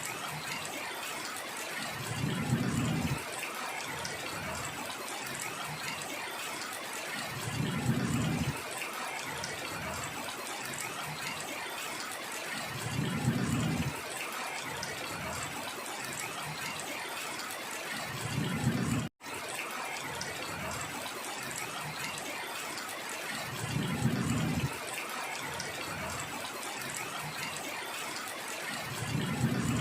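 Steady hiss of heavy rain, with a short low rumble that comes back at even intervals about every five and a half seconds. The sound drops out for a split second about two-thirds of the way in.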